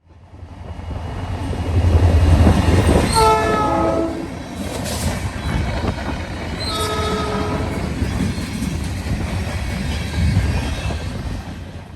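Norfolk Southern SD40-2 diesel locomotive rumbling past, sounding its multi-note horn twice: a blast about three seconds in and a shorter one about seven seconds in. The engine rumble swells over the first few seconds and stays strong under the horn.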